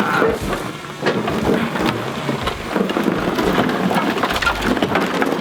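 Rusted car body shell being heaved over: a dense run of scraping, crunching and crackling metal, with many small knocks as rust and debris shift.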